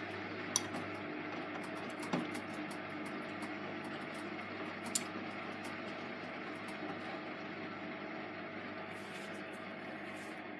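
Hotpoint HE8L493 8 kg washing machine running its Fastwash Eco cycle, a steady mechanical hum. Three short clicks come about half a second, two seconds and five seconds in.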